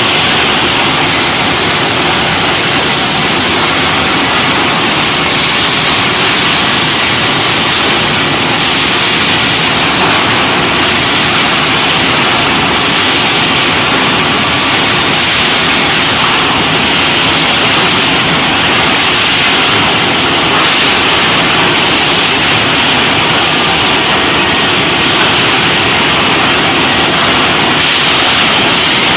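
Steady, loud hiss-like machinery noise of an induction billet heating line, even and unbroken, with no rhythm.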